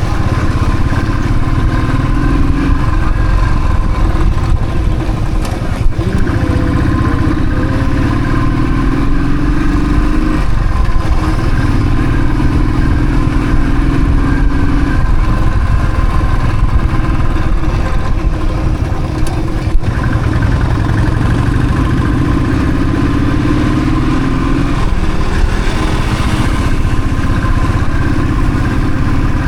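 Royal Enfield Thunderbird's single-cylinder engine running on the move, its pitch climbing in stretches and dropping back several times as the rider works the throttle.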